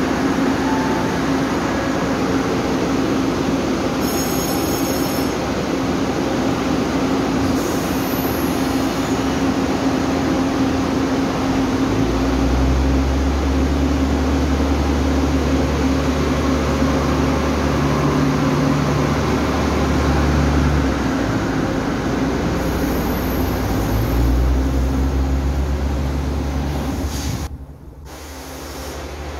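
Taiwan Railway DRC1000-series diesel multiple unit passing through a station: a steady rolling clatter of wheels on rail with a constant hum. A deep engine drone swells in twice as the powered cars go by. The sound cuts off abruptly near the end.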